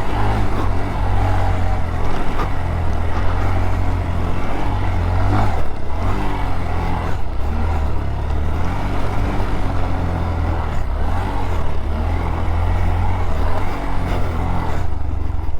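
Small motorcycle engine running under way, its pitch rising and falling a few times, under heavy wind rumble on the microphone.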